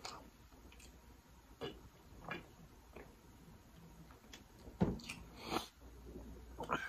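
Quiet close-miked mouth sounds of eating and drinking: chewing and gulps from a plastic drink bottle, with a handful of scattered soft clicks and a heavier knock about five seconds in.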